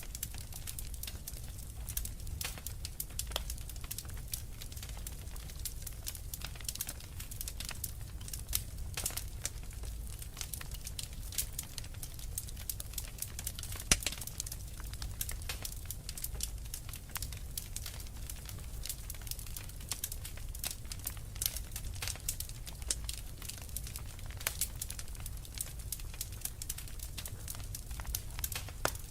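Fireplace fire crackling, with dense irregular pops and snaps over a steady low rumble; one sharper pop comes about halfway through.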